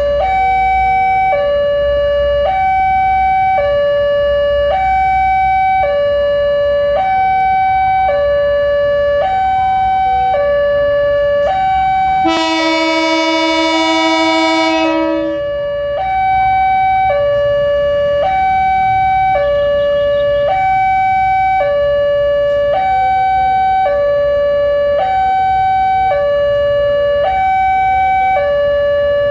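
Level-crossing warning alarm sounding alternating high and low tones, about one pair every one and a half seconds, over a low rumble. About twelve seconds in, a locomotive horn blows for about three seconds.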